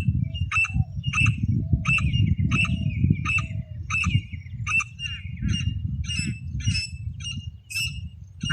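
Teetar (francolin) calling: a run of short, sharp, harsh notes repeated about every half second or so, with a loud low rumble underneath.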